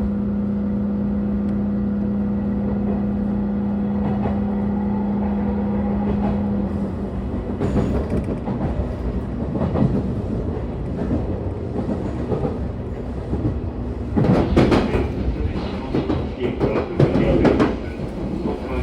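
Train running on rails, heard from aboard: a steady hum for the first seven seconds or so, then a rougher rumble with the clack of wheels over rail joints, loudest about three-quarters of the way through.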